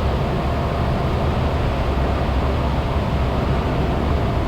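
Cessna 172's engine and propeller running steadily, heard inside the cabin, throttled back to about two thousand RPM for level flight.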